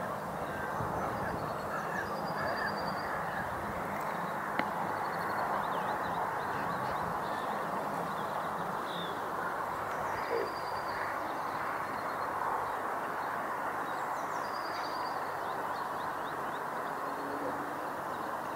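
Steady outdoor background noise, with birds giving short, rapid high trills a few times.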